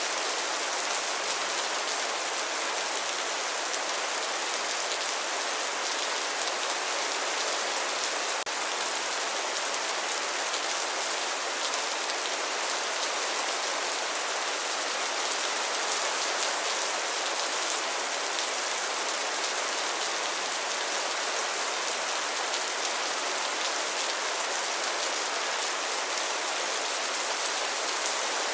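Steady rain falling, with dense drops pattering on a surface; no thunder.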